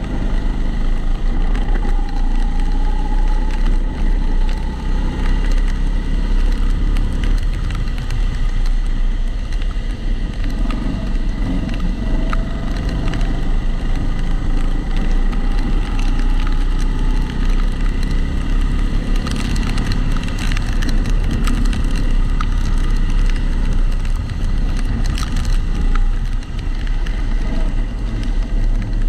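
Kombikart Eco kart driving at speed, heard through a camera in a protective housing. Its drive pitch rises and falls faintly under a dense rumble, with a constant crackling rattle from the housing.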